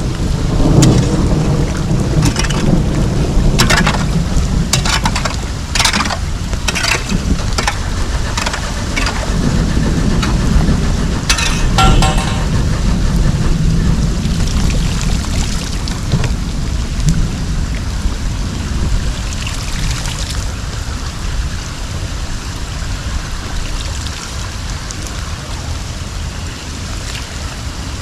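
Steady rush of water with a low rumble, and a scattered run of knocks and clicks in the first twelve seconds; the noise eases a little toward the end.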